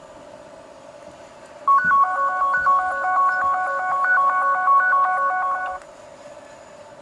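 Electronic phone ringtone: a quick melody of pure beeping tones hopping between several pitches, starting about two seconds in and cutting off about four seconds later, over a steady hum.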